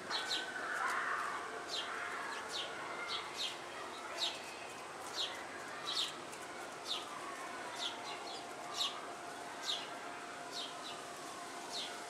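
Small birds chirping: short high chirps repeating about once a second, over a faint steady hum.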